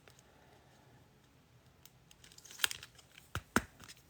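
Trading cards being handled and set down on a tabletop: a quiet stretch, then a few light clicks and taps in the last second and a half.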